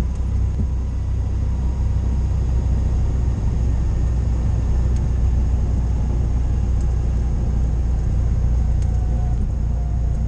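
Cessna 172's piston engine and propeller running with a steady low drone.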